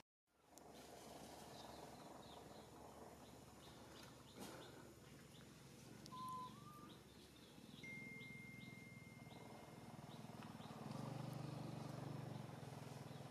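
Faint outdoor ambience with scattered bird chirps, a short rising note about six seconds in and a steady high note held for about two seconds a little later. A low hum underneath grows louder near the end.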